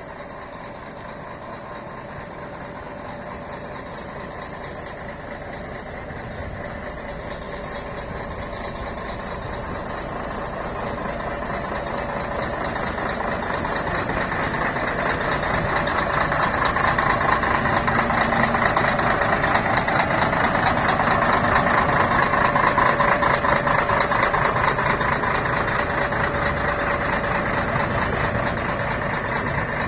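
Scania K113 CL coach's diesel engine running, growing steadily louder over the first fifteen seconds or so as the coach comes near, staying loudest for several seconds, then easing a little near the end.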